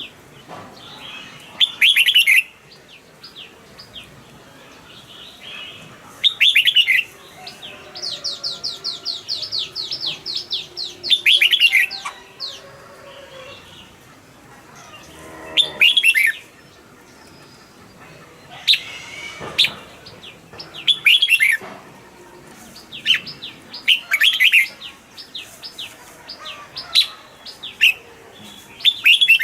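Red-whiskered bulbul song: short, loud whistled phrases every few seconds, with a fast run of rapidly repeated notes about a third of the way through.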